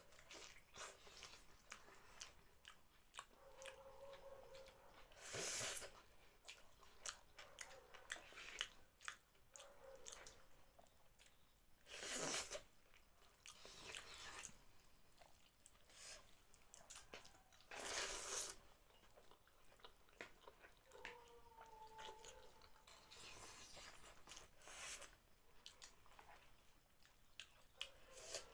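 Close-up eating sounds: a person chewing and biting noodle soup and potato fritters, with many small wet mouth clicks and three louder noisy bursts about six seconds apart.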